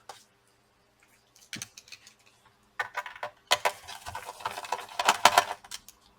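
Small metal tools clicking and scraping against a laptop's plastic underside, with light metallic clinks, as the screw hidden under a rubber foot is got at and removed. A few faint clicks at first, turning busy in the second half.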